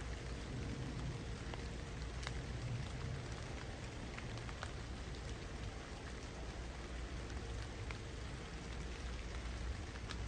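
Steady rain falling through the branches of a tree, with single heavier drops landing close by now and then as sharp ticks.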